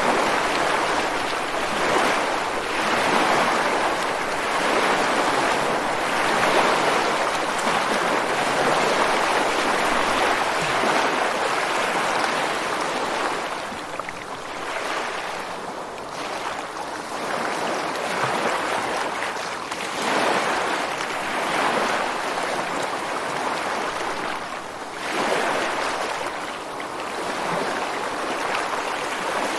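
Ocean surf washing ashore over rocks in a continuous wash of water noise that swells and eases every few seconds as waves come in.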